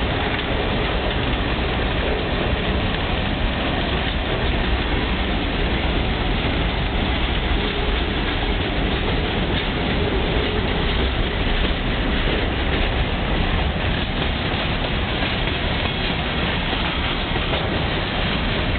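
Open-top coal hopper cars of a Union Pacific coal train rolling past close by: a steady rumble of steel wheels on the rails, even in loudness throughout.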